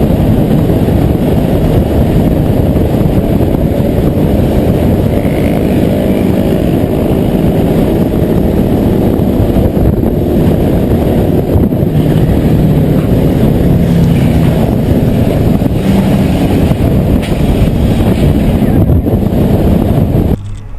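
Steady, loud low rumble of a moving vehicle picked up by a dashcam microphone: tyre, wind and engine noise, with no distinct impact. It stops abruptly near the end.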